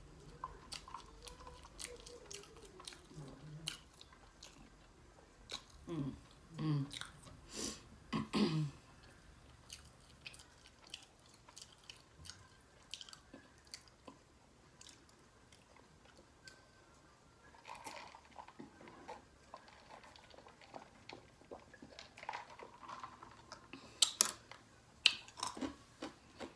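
Close-up eating sounds: chewing and biting into roast pork, rice and bread, with crunches and smacking in irregular bursts, loudest clusters about six to nine seconds in and near the end.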